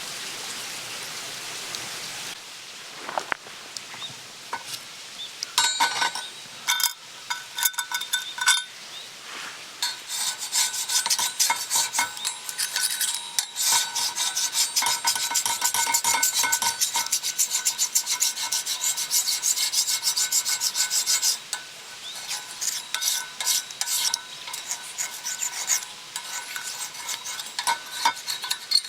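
Metal spatula scraping across an iron griddle plate in repeated rasping strokes, with a thin metallic ringing. It opens with a couple of seconds of steady hiss before the scraping begins.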